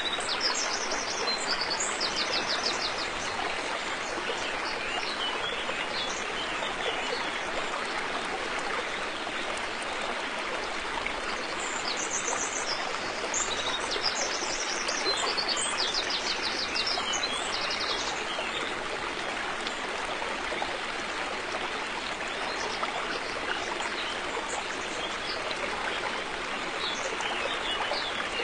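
River water flowing steadily. Small birds call in high, rapid trills at the start and again about halfway through.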